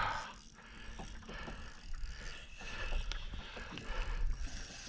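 Fishing reel turning, its gears and ratchet giving a run of light clicks.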